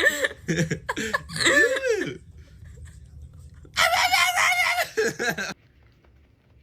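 A person's voice making silly noises: short sounds that slide up and down in pitch, then a loud held cry lasting about a second, about four seconds in.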